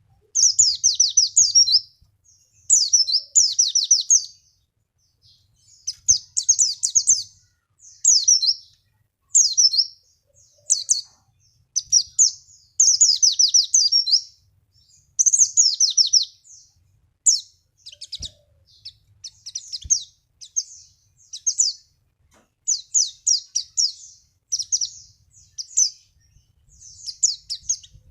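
Pleci (white-eye) singing: quick high twittering phrases of rapid down-slurred notes, each lasting about a second, repeated over and over with short pauses between them.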